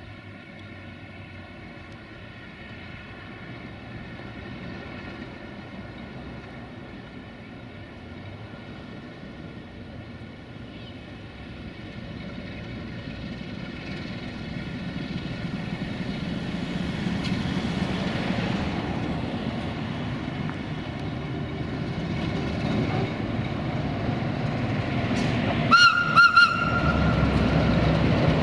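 A train approaching and growing steadily louder, with two short horn blasts near the end.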